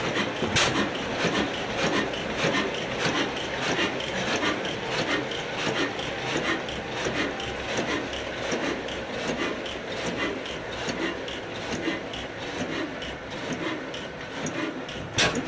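Old Ruston Hornsby stationary diesel engine running steadily, driving a flour mill (atta chakki), with a continuous rasping, grinding noise over the regular beat of the machinery.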